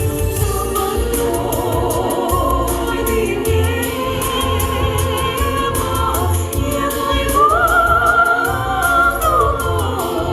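Female vocal trio singing in harmony with vibrato over a backing track with a steady low beat. About seven seconds in, a high voice rises and holds a long note, then falls near the end.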